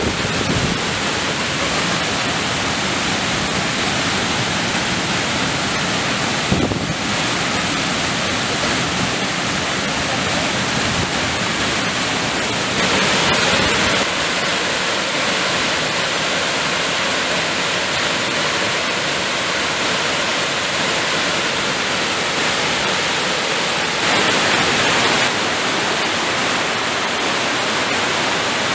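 Waterfall on a mountain creek rushing with a steady, even roar of falling water. There is a short bump about six and a half seconds in, and the level lifts briefly twice.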